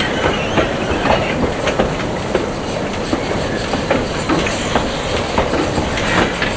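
Narrow-gauge train running along the track: a steady rumble with irregular clicks and clatter from the wheels over the rail joints.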